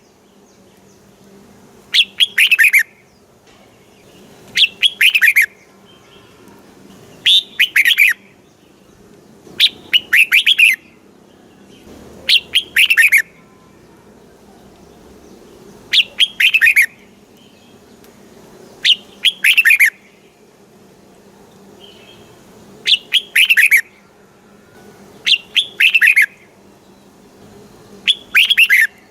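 Red-whiskered bulbul singing: short, bright song phrases repeated about every two to three seconds, each a quick run of notes falling in pitch.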